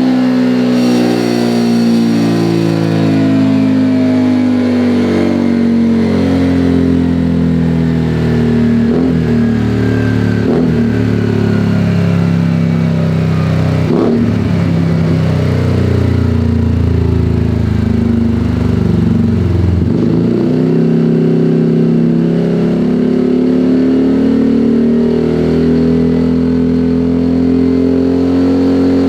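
Small automatic scooter engine through a 3Tech EvoX STD aftermarket exhaust with its dB-killer baffle removed, revving. The revs fall over the first several seconds, hold lower with a few short sharp pops, then climb steadily again through the second half.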